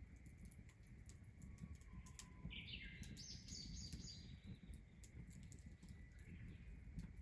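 A bird calls once, a short faint run of chirps about two and a half seconds in, over a low rumble and scattered faint ticks.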